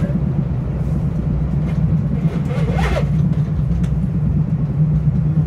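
Metro-North Hudson Line commuter train running at speed between stations, heard from inside the passenger car: a steady low rumble of wheels and running gear. A brief higher-pitched sound rises and falls about halfway through.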